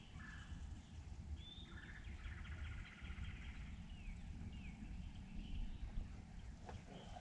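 Wild birds calling in woodland, a quick trill followed by a few short falling whistles, over a low steady rumble.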